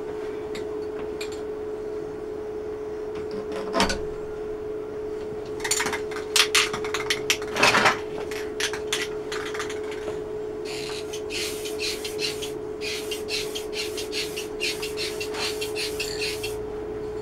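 Workshop handling noises: one sharp knock, a cluster of clattering clicks, then a long run of rapid rattling clicks, over a steady hum.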